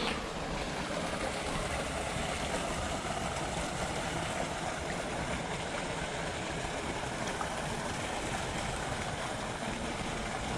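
Steady rush of moving floodwater in a rain-swollen ditch, an even hiss without separate splashes or knocks.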